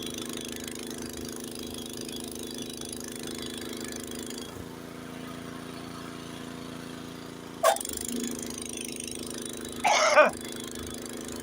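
Honda HS80 snowblower's single-cylinder engine running steadily as it clears deep snow, its note shifting about four seconds in. A sharp knock comes near eight seconds, and a short loud burst about ten seconds in.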